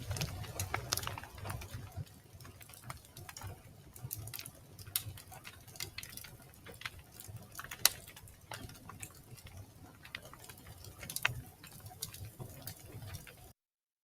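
Wood fire in a fireplace crackling, with scattered sharp pops and snaps over a faint low rumble that fades after the first couple of seconds. Near the end the sound cuts out suddenly to complete silence.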